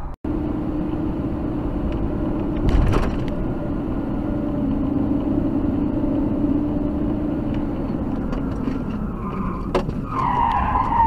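A car driving, with steady engine and road noise. There is a brief sharp noise about three seconds in, and near the end a higher squeal comes in, like tyres skidding.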